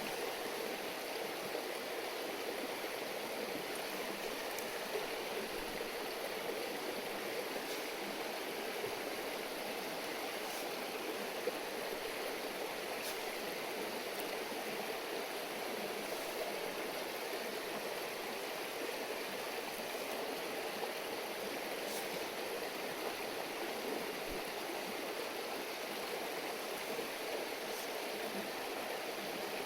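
A river stream babbling steadily, with a few faint sharp clicks now and then.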